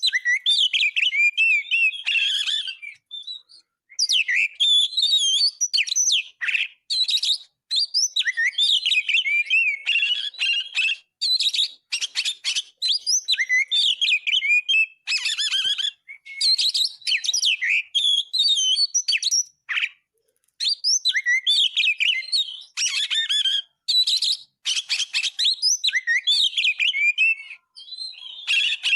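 Oriental magpie-robin (kacer) singing a long, varied song of rapid chattering notes and whistled phrases, full of mimicked filler phrases (isian). The song pauses briefly about three seconds in and again about twenty seconds in.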